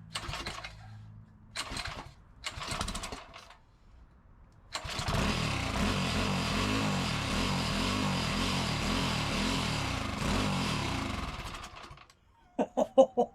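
Predator 212 single-cylinder four-stroke engine on its first start without a choke. Three short bursts as it sputters, then about five seconds in it catches and runs for about seven seconds with its speed wavering, before it stops.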